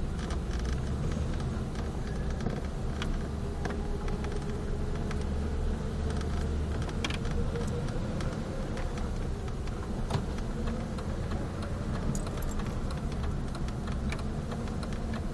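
Truck engine and road noise heard from inside the cab while driving slowly: a steady low rumble with a faint engine tone that drifts slightly in pitch, and scattered light rattles.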